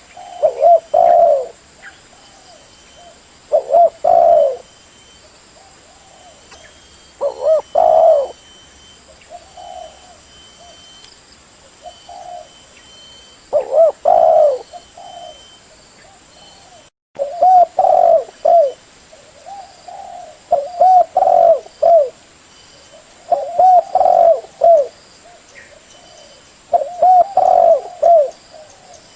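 Spotted dove cooing: short phrases of two or three rolling coo notes, repeated every few seconds.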